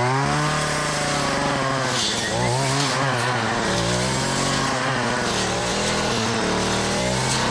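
Small two-stroke power-tool engine running at high revs, its pitch rising and dropping again and again as the load on it changes.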